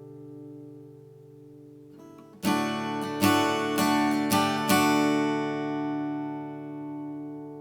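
Vintage steel-string acoustic guitar: a chord is ringing and fading, then about two and a half seconds in five chords are strummed roughly half a second apart. The last chord is left to ring out with a long sustain.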